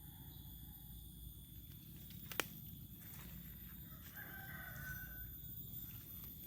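A rooster crowing faintly once, a held call of about a second that starts about four seconds in. A single sharp click comes shortly before it.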